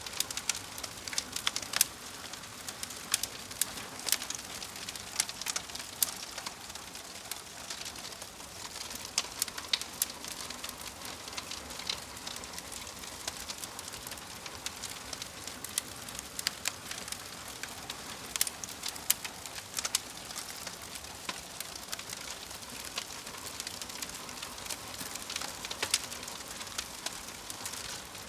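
Wood logs burning in a fireplace: a steady hiss with frequent, irregular sharp crackles and pops.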